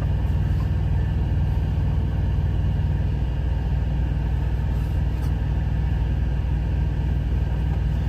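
Steady low engine drone of an idling truck, heard inside the cab, holding an even level throughout, with a few faint light clicks.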